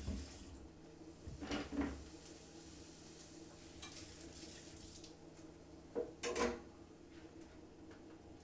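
Kitchen utensils clattering against pots and pans in two short bursts, about a second and a half in and again about six seconds in, over a faint steady hum.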